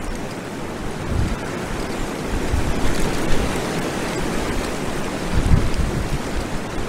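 Strong wind blowing over an outdoor nest camera's microphone: a steady rushing with low, uneven buffeting gusts.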